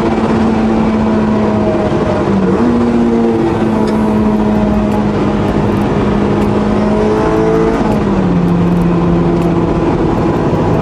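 Honda Integra Type R DC5's K20 four-cylinder engine being driven hard. Its pitch dips and jumps back up about two seconds in, then steps down lower near eight seconds, as gears change.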